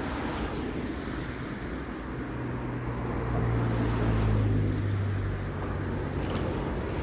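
A passenger train running on the line, a low drone swelling about two seconds in, loudest near the middle, then easing off, over steady outdoor rumble.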